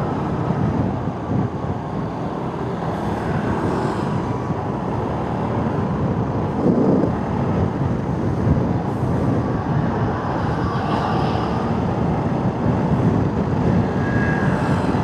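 Motorcycle on the move: steady engine and road noise.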